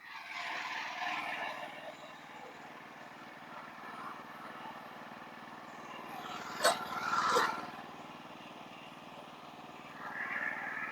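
An engine running steadily, with a sharp knock about two-thirds of the way through followed by a brief louder burst.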